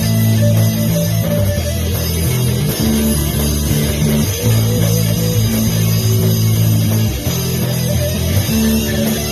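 Instrumental break of a rock song: guitar and bass play held chords, with no vocals.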